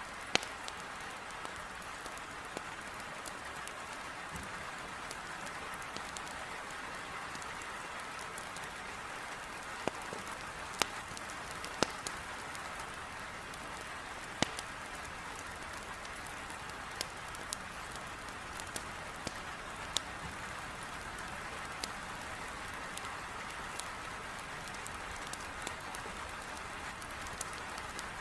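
Heavy rain beating on a window as a steady hiss, with a wood fire crackling over it: sharp pops at irregular intervals, a few louder ones near the middle.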